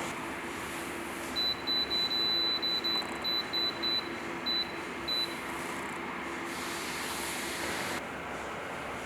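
Electronic beeps from a standing electric heater's control panel: a run of about a dozen short, high beeps over some four seconds, one of them held longer. They sound over a steady hiss and a low hum.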